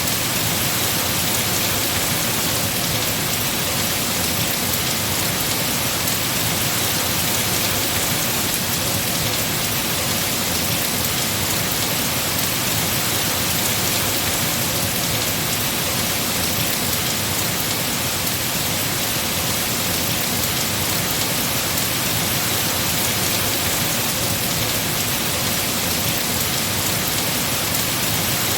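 Heavy rain falling steadily on trees, an even, unbroken hiss of rain that neither builds nor eases.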